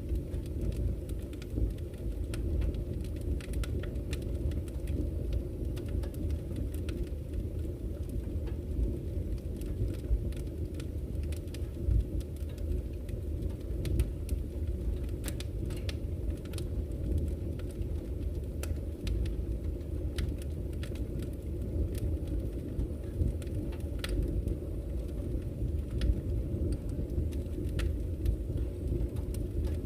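Wood campfire crackling, with scattered sharp snaps and a few louder pops, over a steady low rush of flowing river water.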